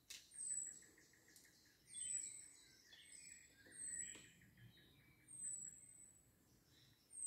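Songbirds singing in woodland. One bird repeats a short, very high, falling call about every second and a half to two seconds, with softer chirps and trills from other birds underneath.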